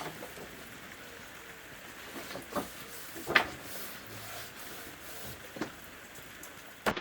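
Sketchbook pages being handled and turned: a few short paper flicks and taps, the loudest about halfway through, over a faint hiss.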